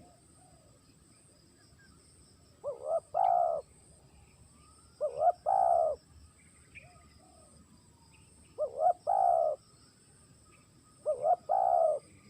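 Spotted dove cooing: four calls about two and a half seconds apart, each two short notes run into a longer coo.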